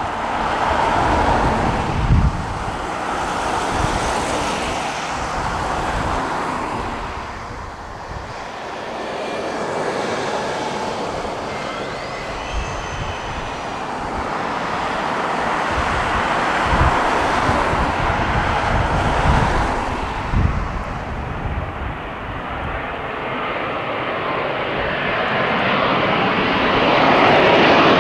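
Jet engines of a widebody Boeing airliner passing, a broad rumble with a thin whine that swells and fades and grows louder again near the end.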